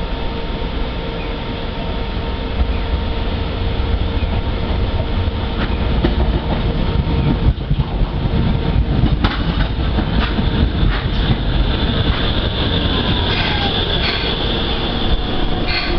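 Hiroshima Electric Railway tram running, with a steady motor hum and wheels clattering over the track. About two thirds of the way through, a whine falls in pitch as the tram slows.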